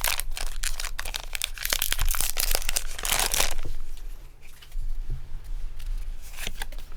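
A Pokémon card booster pack's foil wrapper being torn open and crinkled: dense crackling for about three and a half seconds, then quieter with a few light rustles as the pack is handled.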